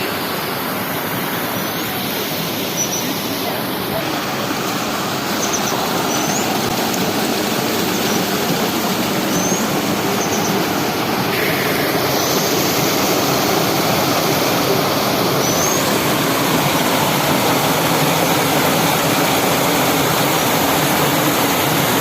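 Water rushing steadily over a small waterfall, with a few short, high bird chirps scattered through the first part.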